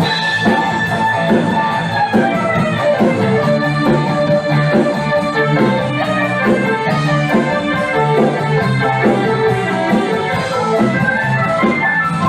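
A band playing an instrumental passage with keyboard and drums, no singing.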